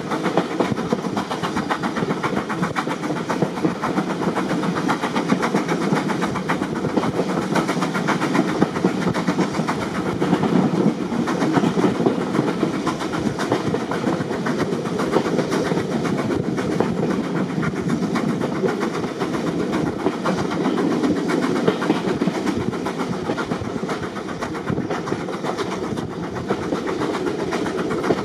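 Heritage railway carriage moving along the line, heard from on board: a steady rumble of wheels on the track with fine rapid clicks running through it.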